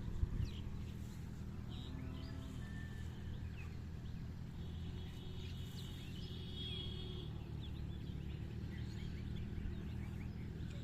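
Small birds chirping in short calls over a steady low rumble, with a brief thump just after the start and a thin high trill for a couple of seconds around the middle.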